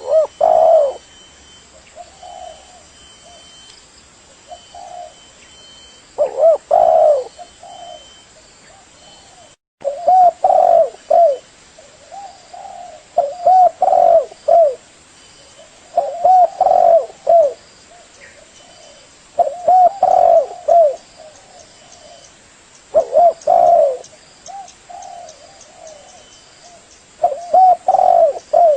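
Spotted dove (terkukur) cooing: a series of loud, low, rounded coo phrases repeated every three to four seconds, with softer coos in between.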